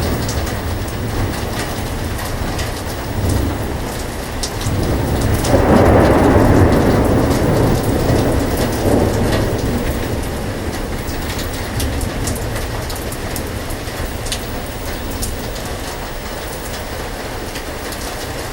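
Heavy rain falling steadily, with a roll of thunder that swells about five seconds in and dies away over the next few seconds.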